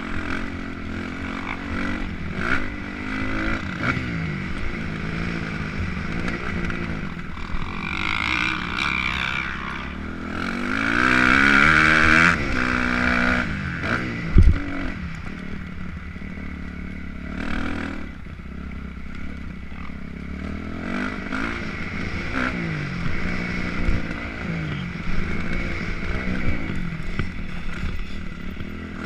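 Motocross dirt bike engine revving up and falling back again and again as it accelerates and shifts, loudest about 11 to 13 seconds in. A single heavy thump comes about 14 seconds in.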